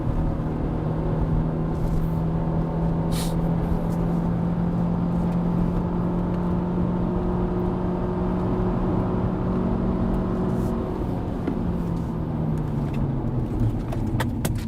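Hyundai Avante (CN7)'s 123 hp engine droning at one steady pitch for about ten seconds, then falling slightly, over tyre and road noise inside the cabin.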